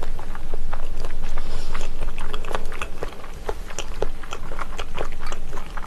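Close-miked chewing of a mouthful of spicy boneless chicken-feet pressed meat: a run of irregular quick mouth clicks and smacks.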